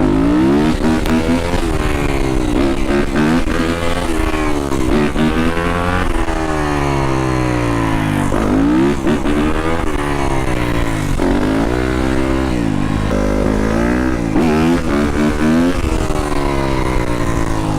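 Dirt bike engine revving hard under acceleration, its pitch climbing and dropping again and again as the rider works the throttle and shifts through corners.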